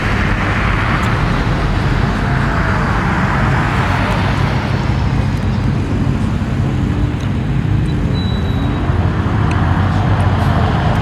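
Car engines running at a street car meet: a loud, steady mix of engine noise, with faint voices in the background about two-thirds of the way through.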